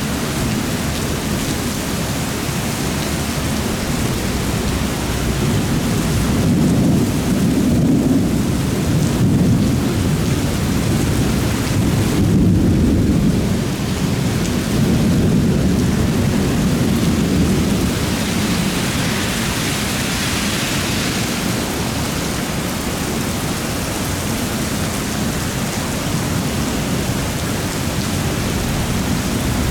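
Heavy thunderstorm rain pouring steadily, with a long low rumble of thunder that builds about six seconds in and dies away by about seventeen seconds. The rain hiss swells briefly about twenty seconds in.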